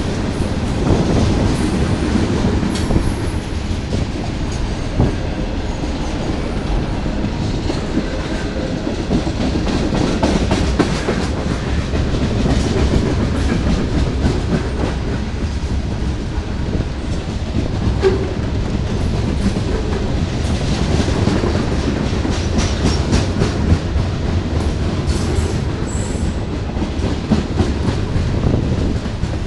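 Freight train cars rolling past at track side: a steady low rumble with repeated clicking of wheels over rail joints and a couple of brief high wheel squeaks.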